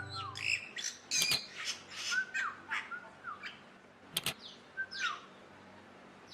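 A bird calling: an irregular run of short squawks and chirps, several with quick up-and-down pitch slides, broken by two sharp clicks, thinning out after about five seconds.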